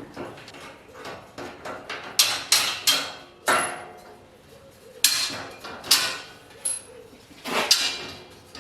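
Irregular sharp metallic knocks and clanks of steel parts being handled or tapped, about ten in all, several ringing briefly after the strike.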